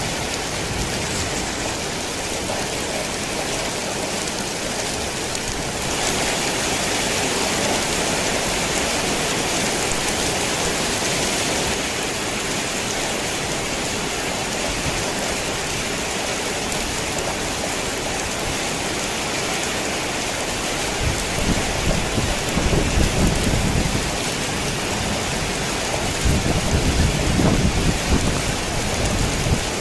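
Heavy rain pouring steadily onto a tin roof, a dense hiss that swells louder for several seconds near the start. Thunder rumbles twice in the second half, each rumble lasting a few seconds.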